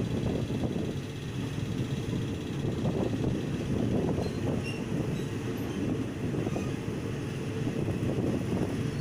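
Passenger train running along the track, heard from a carriage window: a steady low rumble and clatter of wheels on rail.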